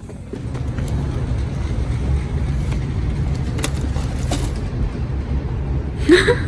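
Steady low rumble, with a short rising voice-like call about six seconds in.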